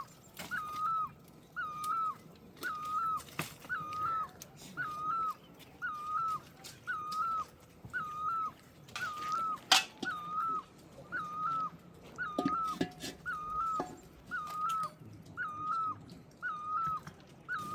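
A bird calling over and over, a short whistled note that drops and lifts at the end, repeated evenly about once a second. Scattered sharp knocks and clicks sound alongside, one loud knock about halfway through.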